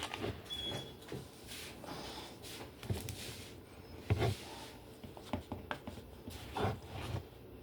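Irregular knocks and clatters of kitchen items being handled and set down on a counter: containers, plates and utensils, the loudest knock about four seconds in.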